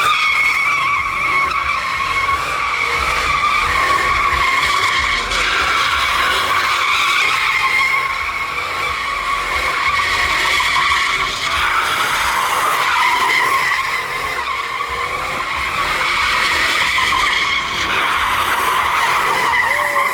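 Truck tyres spinning in a burnout, giving a continuous loud two-toned squeal that wavers slightly in loudness but never stops.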